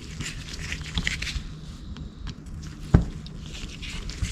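Small metal clicks and taps of a screwdriver and screws being worked out of a motorcycle carburetor's float bowl, with one sharp click about three seconds in.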